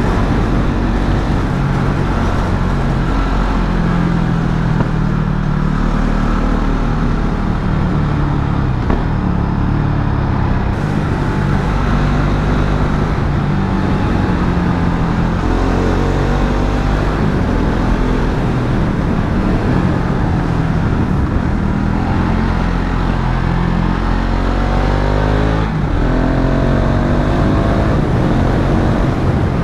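KTM Duke 690 single-cylinder engine running under load while riding, the revs rising and falling with throttle and gear changes. It climbs in pitch twice, with a shift about 26 seconds in, over steady wind and road rush.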